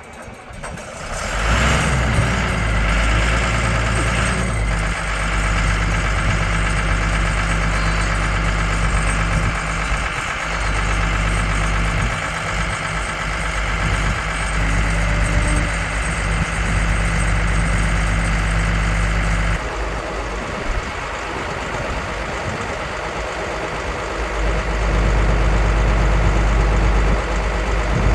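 A vehicle engine comes up to speed about a second in and then runs steadily at idle. Its note changes about two-thirds of the way through and grows louder near the end.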